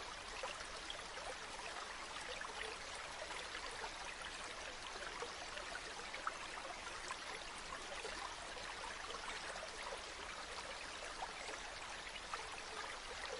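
A river flowing steadily over stones, a continuous babble of water with small splashes and trickles.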